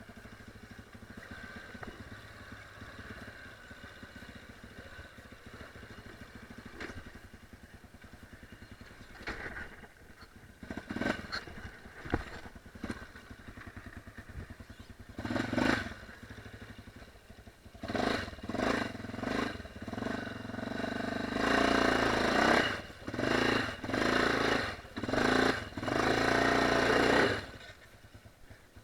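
Enduro dirt-bike engine ticking over low at first, then throttled up in repeated short bursts that come thicker and louder through the second half, before easing off near the end.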